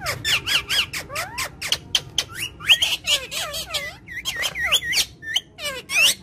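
Indian ringneck parrot chattering: a fast run of short squeaky chirps and whistled notes that swoop up and down in pitch, with sharp clicks in between.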